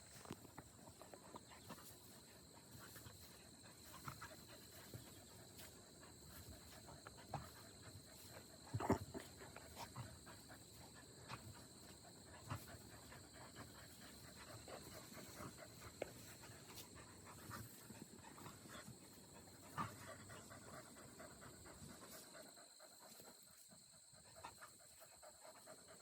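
A dog panting faintly, with scattered faint clicks and knocks, the loudest about 9 seconds in and another near 20 seconds.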